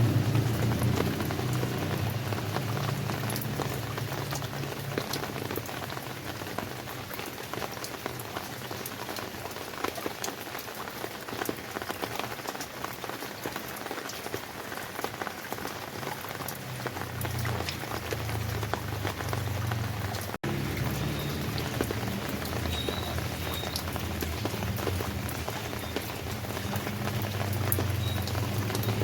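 Steady rain falling, with many separate drops ticking over the hiss. A low rumble swells and fades underneath, strongest at the start and again near the end.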